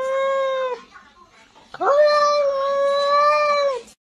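Cat yowling: two long, drawn-out calls. The first tails off just under a second in, and the second starts near the middle, rising in, holding steady for about two seconds, then dropping away.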